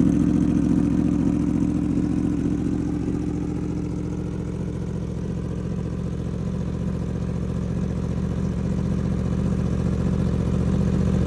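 Yamaha R1 inline-four running through an Austin Racing GP1R exhaust, idling steadily just after a cold start. It gets a little quieter over the first few seconds.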